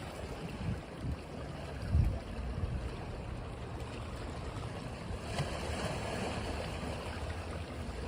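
Ocean waves washing onto a beach, with a wave breaking and swelling about five seconds in, over wind buffeting the microphone.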